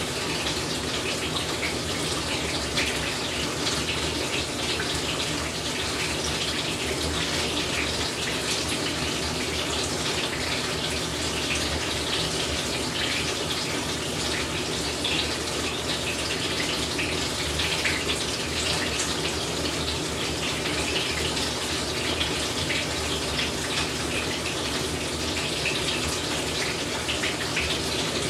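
Water running and splashing steadily inside a Whirlpool Cabrio top-load washing machine's tub during the wash cycle.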